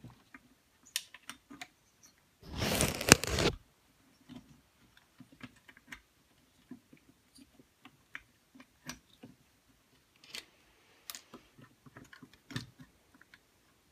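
Small clicks and taps of metal parts and tools being handled while a carburetor assembly is worked into place on a chainsaw engine. A loud scraping rustle about a second long comes in near the start, with a sharp click in it.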